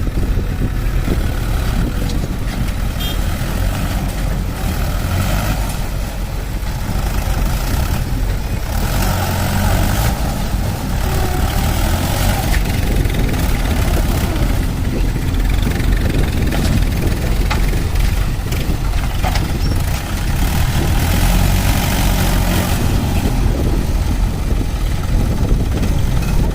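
Heavy diesel machinery engine running continuously, its sound swelling and easing in places as the machine works.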